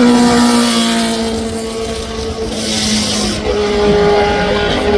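Racing car engines at high, steady revs: one car's note fades about halfway through, and a second engine note at a steady pitch comes in about three and a half seconds in.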